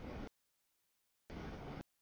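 Freight train cars rolling past on the rails, heard as two short chunks of rumbling noise, with dead silence in between where the audio drops out.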